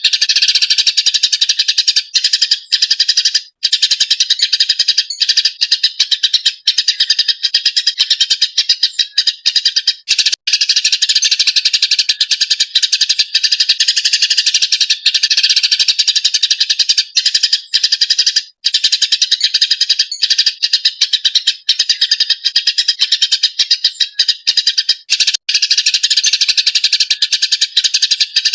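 Eurasian tree sparrow chattering and chirping in a rapid, agitated, near-continuous stream, loud and high-pitched, with only momentary breaks.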